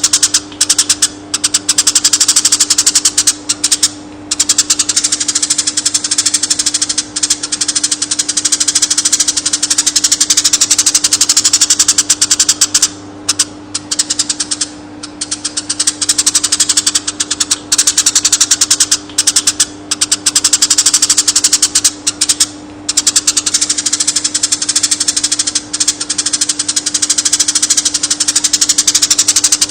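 Konin song: a loud, continuous, very rapid high trill of quick clicking notes, broken now and then by short pauses, over a steady low hum.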